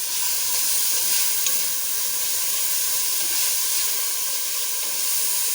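Onions and tomatoes frying in olive oil in a pan, a steady sizzle.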